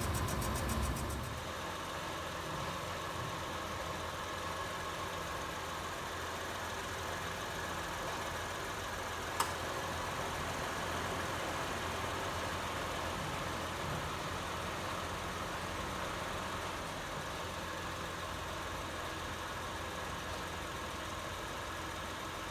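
Honda Elysion Prestige engine idling steadily with the abnormal noise that the owner traced to a faulty ignition coil. It is louder, with a fast high ticking, for the first second or so, and there is one sharp click about nine seconds in.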